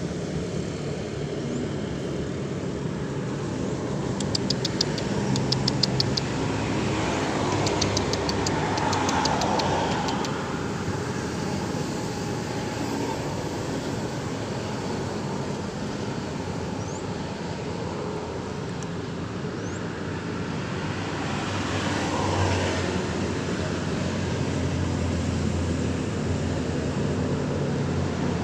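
Road traffic: motor vehicles passing in a steady rumble that swells now and then, with short runs of rapid clicking about four seconds in and again about eight seconds in.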